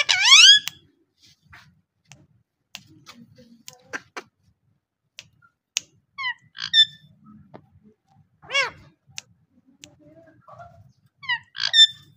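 Parrot squawking and calling: a loud rising squawk right at the start, then several shorter pitched calls around the middle and near the end, with scattered sharp clicks in between.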